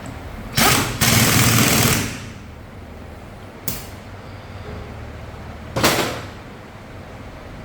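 Compressed-air tools on a motorcycle engine assembly line, giving four sudden bursts of hissing noise (the longest lasts about a second) over a steady low factory hum.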